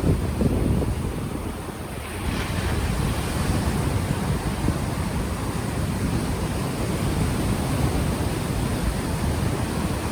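Ocean waves washing onto the shore, with heavy wind buffeting the unshielded microphone. About two seconds in, a wave breaks with a louder hiss of surf.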